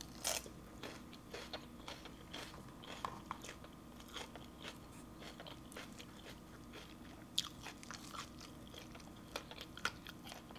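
Chewing a mouthful of crisp raw leafy greens: a sharp bite-crunch just after the start, then uneven crunches and wet mouth clicks, with another sharp crunch about seven seconds in.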